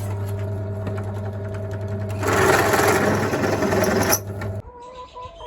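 Electric drill running with a larger bit, countersinking mounting holes in thin sheet steel. The bit cuts loudly for about two seconds in the middle, and the motor stops a little after four seconds in.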